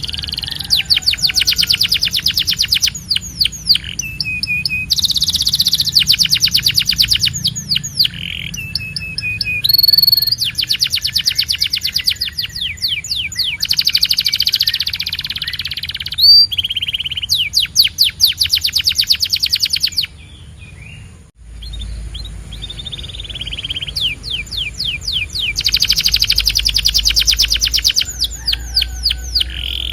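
Canary singing: rapid trills of quickly repeated high notes in phrases a few seconds long, broken by short whistled notes, with a brief pause about two-thirds of the way through.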